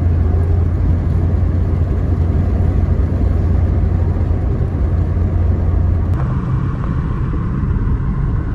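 Steady low rumble of a car running; the sound shifts in character about six seconds in.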